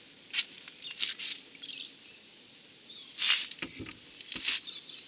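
Birds chirping in short high calls amid light scratching and rustling, with a louder burst of chirps about three seconds in.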